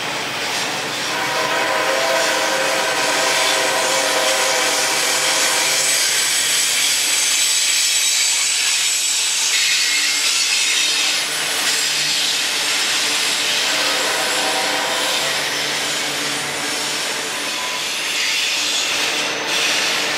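Freight train cars rolling past on the rails, the steel wheels grinding and squealing against the rails, with the squeal strongest about a second in and again about two-thirds of the way through.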